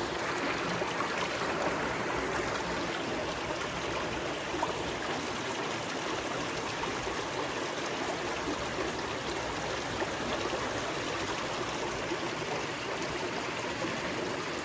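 Creek water rushing steadily over a riffle, an even, unbroken sound.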